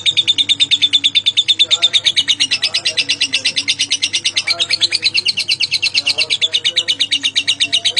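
A lovebird's long chattering trill: high, rapid chirps at about ten a second, running without a break. Faint lower gliding sounds lie underneath.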